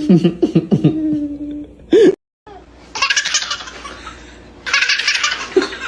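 A baby laughing in pitched squeals. After a brief cut about two seconds in, more laughter comes in quick, hissy bursts.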